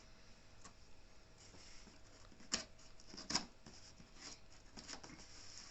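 Faint scrapes and clicks of a cardboard delivery box being handled as it is opened, with two sharper clicks a little past the middle.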